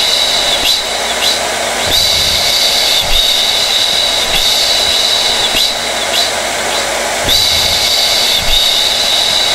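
Blow dryer running steadily: a continuous rush of air with a high-pitched motor whine over a low hum, with faint brief ticks now and then.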